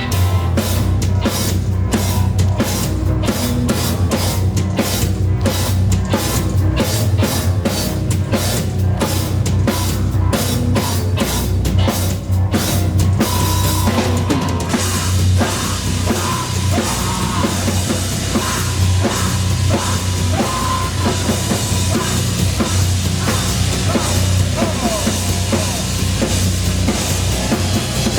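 Live loud rock band playing, with drum kit and bass. A hard, even drum beat drives the first half, then a dense wash of cymbals fills the rest from about halfway through.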